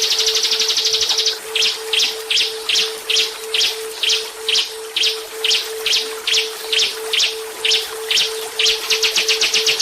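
Recorded small songbird song, a masteran track for training a white-rumped shama: a very fast high trill, then a run of separate sharp notes about two or three a second, and the fast trill again near the end. Underneath runs a steady, rapidly pulsing low tone from an added brainwave track.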